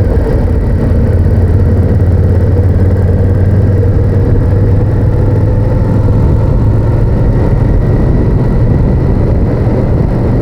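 Honda VTR1000F's V-twin engine running at a steady cruise, its even drone heard from on the moving motorcycle together with wind and road noise.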